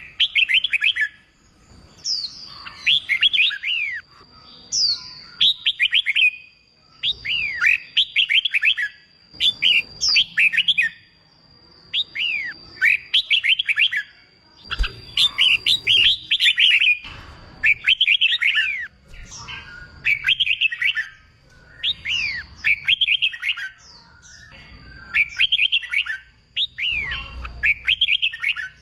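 Red-whiskered bulbul singing: short phrases of quick, bright whistled notes repeated about every one to two seconds, the loud competition-style song played to prompt young birds to sing. A faint steady high tone runs underneath.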